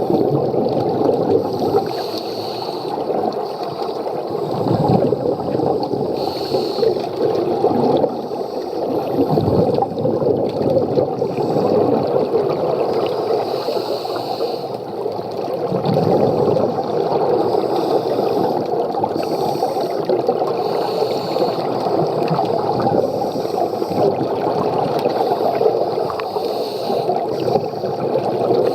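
Underwater bubbling and gurgling from a scuba diver's breathing through a regulator, with a short hiss every several seconds.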